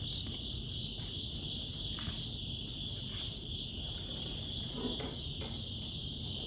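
Insects chirping: a steady high trill with a pulsing chirp repeating about twice a second.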